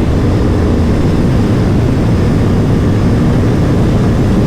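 Aprilia Tuono V4 Factory's V4 engine running at steady revs under way, its tone held level over a dense rush of noise.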